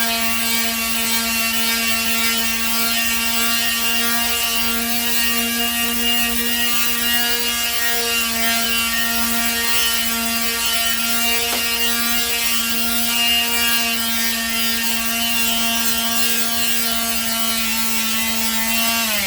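Makita variable-speed angle grinder fitted with a sandpaper disc, running at a steady high whine while sanding a white oak axe handle, then switched off near the end and winding down in pitch.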